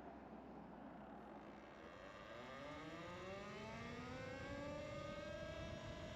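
A motor or engine speeding up: its whine rises steadily in pitch for a few seconds, then levels off and holds steady.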